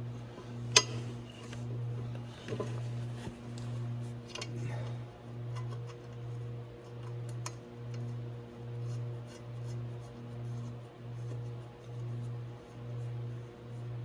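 Hand tools clinking against metal a few times, with one sharp clink about a second in, over a steady low hum that swells and fades a little more than once a second.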